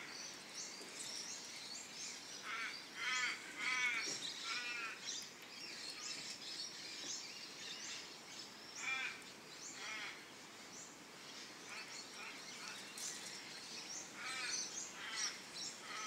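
Birds calling: groups of short, high, wavering calls a few seconds in, again around nine seconds and near the end, over scattered faint high chirps.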